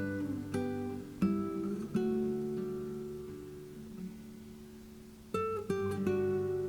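Background music: acoustic guitar picked and strummed, with a chord left ringing and fading for a few seconds before the strumming picks up again.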